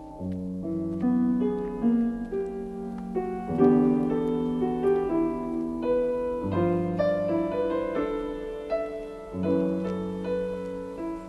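Background music: a slow piano piece, melody notes over a low bass note that changes about every three seconds.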